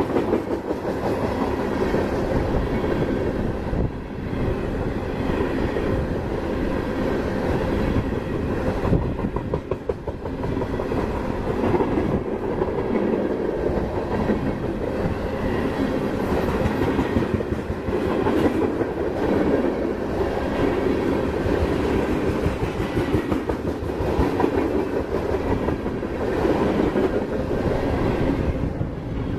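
Freight train of high-sided trash gondolas rolling past: a steady rumble of steel wheels on the rails, with repeated clicks as the wheels cross rail joints.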